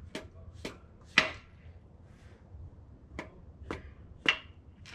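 Sharp metal clicks and knocks from engine parts being handled and set down, six in all. The loudest comes about a second in, and the one near the end rings briefly.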